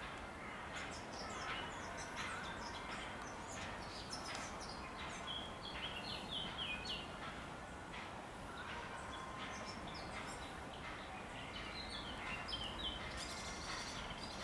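Small birds chirping and twittering repeatedly, with short falling calls that come in clusters, over a steady low background rumble.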